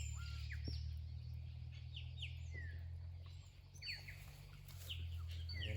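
Wild birds chirping: many short, quick calls sliding in pitch, scattered throughout, over a low steady rumble.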